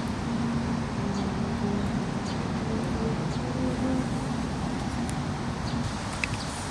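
Steady rushing noise of heavy rain and running water, with a faint low hum coming and going in the first few seconds.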